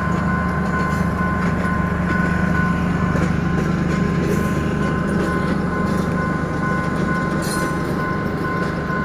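A train running past a railway level crossing with a steady low rumble. Two steady high warning tones from the crossing sound continuously over it.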